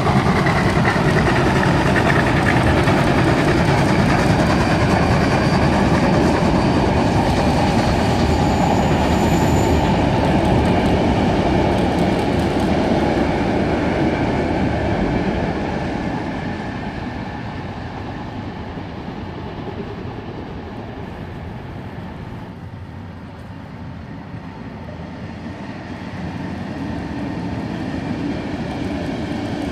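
Heritage train passing over a railway bridge: a steady rumble with the clatter of wheels on the rails. It is loudest in the first half, drops away around the middle and builds again near the end.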